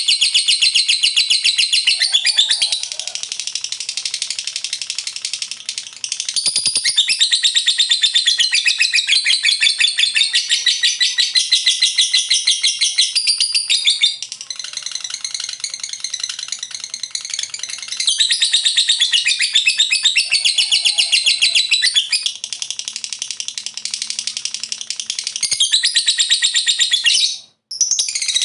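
Lovebird singing its long 'ngekek' song: a fast, unbroken run of shrill, rapidly repeated chattering notes that swells louder and softer in long stretches. It cuts out suddenly for a moment near the end.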